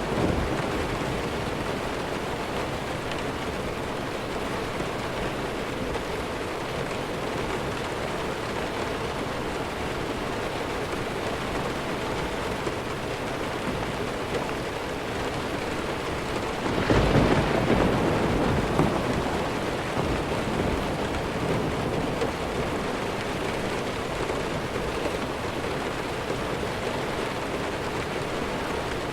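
Steady rain falling, with one clap of thunder about seventeen seconds in that comes in suddenly as the loudest sound and rumbles away over a few seconds.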